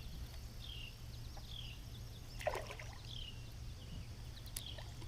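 A splash in the water about halfway through, as a hooked largemouth bass is brought in to the kayak. A bird calls in short falling chirps about once a second throughout.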